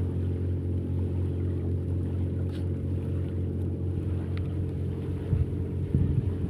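Boat engine running with a steady low drone. A few short knocks come near the end.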